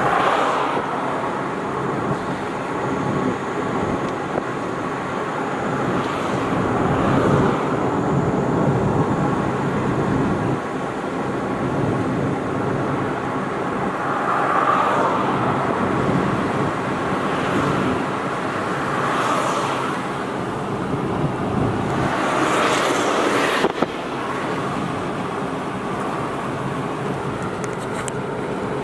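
A car driving on city streets: steady road and engine noise, with louder swells every few seconds and a sudden drop in level a little after two-thirds of the way through.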